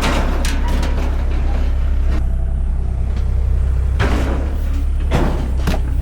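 A small excavator's engine running steadily underneath, with a dense stretch of harsh noise for about the first two seconds and a few sharp knocks later on, from demolition work on metal and debris.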